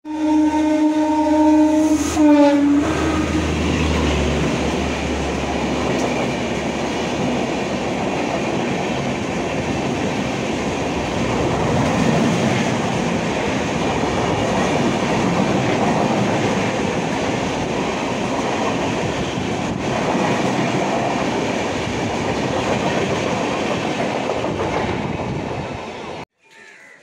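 Passenger express train running through a station at speed: its horn sounds for about two and a half seconds, then the coaches rush past the platform with a loud, steady rumble and rattle of wheels on rails. The sound stops abruptly about a second before the end.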